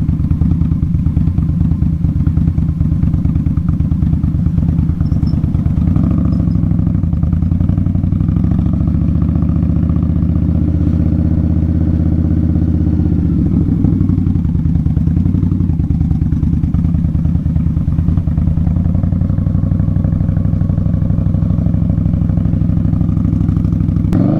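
2018 Indian Scout Bobber's V-twin running through Vance & Hines slash-cut exhaust, a loud deep note that holds fairly steady with small rises and falls in pitch.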